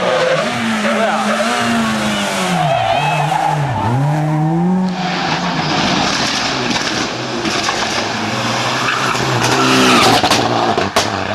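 A World Rally car's engine through a corner: its revs drop sharply and climb again twice, then tyre noise hisses and the engine pulls hard again, loudest near the end.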